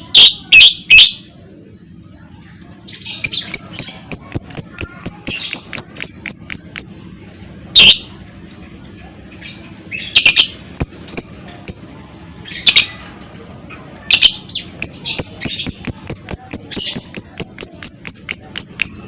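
Lovebird ngekek: long runs of rapid, sharp high chirps at about four to five a second. A few louder harsh screeches come in between the runs.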